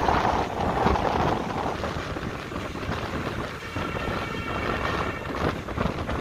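ICF passenger coach running along the track, heard from its open window: wheels rumbling and knocking on the rails, with wind rushing over the microphone. A faint, steady high tone joins in about two-thirds of the way through.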